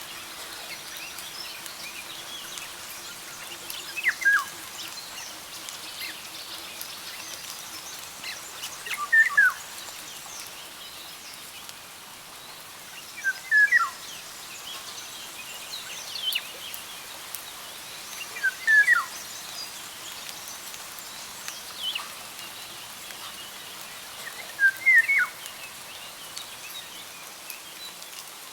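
Birds singing in a forest: one bird repeats a short phrase of a few notes that fall in pitch, about every five seconds, over fainter high chirping from other birds and a steady soft hiss.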